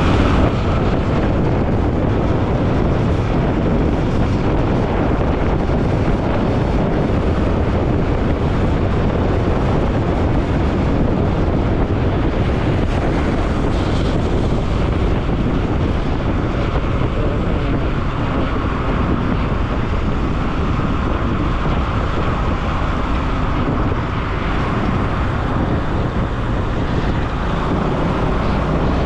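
Bajaj Pulsar NS200 motorcycle on the move: its single-cylinder engine running steadily under wind buffeting on the microphone.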